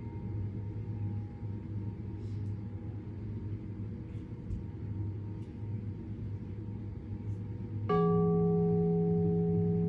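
A struck metal meditation instrument, of the singing bowl or gong kind, ringing. Earlier tones fade slowly over a steady low hum, then about eight seconds in a fresh strike sets off a deep, louder tone with several overtones that keeps ringing.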